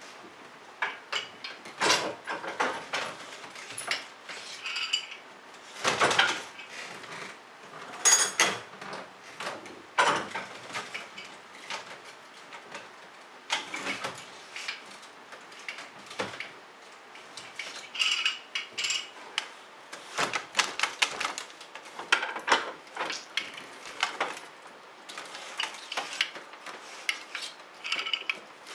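Dishes and cutlery being handled: irregular clinks and knocks, a few with a short ring.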